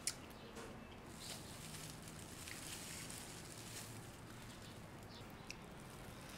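Faint chewing and mouth sounds of a person eating, with a sharp click near the start and a few small scattered clicks.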